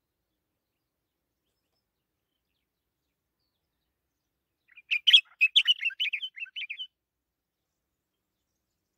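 A songbird sings one short phrase of quick, high chirping notes lasting about two seconds, starting about halfway through.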